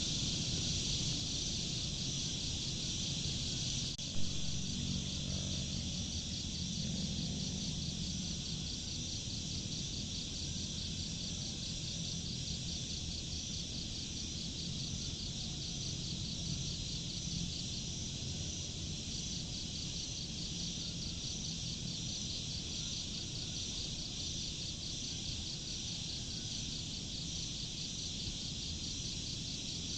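A steady chorus of crickets chirping in fast, even pulses over a low background rumble, with one brief click about four seconds in.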